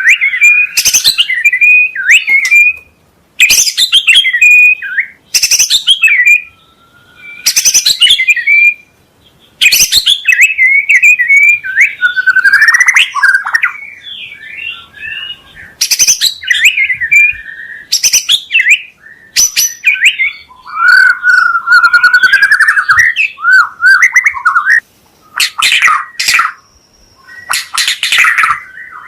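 White-rumped shama (murai batu) singing in loud phrases a second or two long, separated by short pauses: warbled whistled notes mixed with harsh, rasping calls and sharp, sudden notes.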